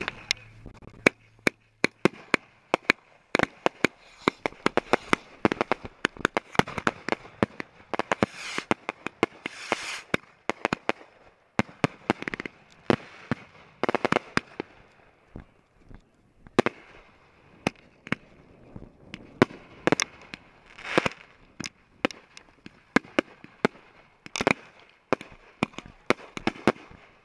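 Consumer fireworks going off at close range: a long, irregular run of sharp cracks and pops, several a second, with a brief lull about sixteen seconds in.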